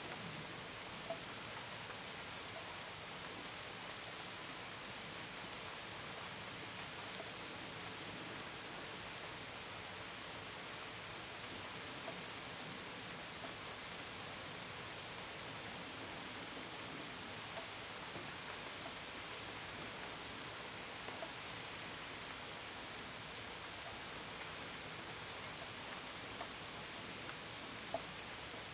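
Steady gentle rain, with a few sharper drops tapping now and then. Crickets chirp throughout in a high, pulsing trill.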